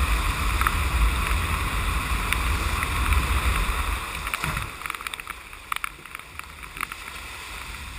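Wind rumbling on the microphone over water noise. It eases about halfway through, leaving quieter water sound with scattered knocks and splashes.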